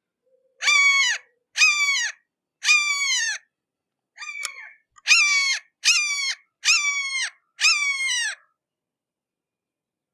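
Red-shouldered hawk calling: a series of about seven loud, drawn-out kee-ah screams, each dropping in pitch, with a softer call in the middle of the series.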